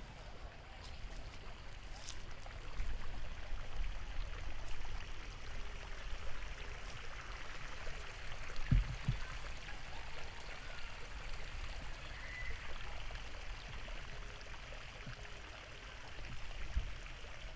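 Steady rush of flowing water, swelling a few seconds in, with one low thump about halfway through.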